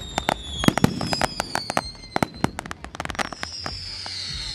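Aerial fireworks going off: a rapid run of sharp cracks and bangs for about three seconds, thinning out after, with high whistles slowly falling in pitch. From about three seconds in, a cluster of shrill whistles rises over the crackle.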